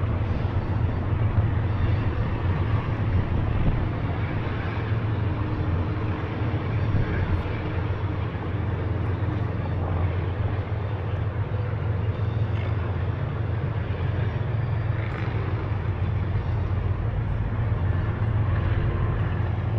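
Steady rushing road and wind noise from riding a Onewheel electric board, with a constant low hum and no breaks.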